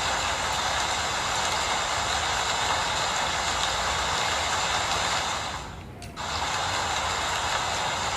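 Steady rain falling, an even rushing noise. About six seconds in it briefly fades down for about half a second, then comes straight back.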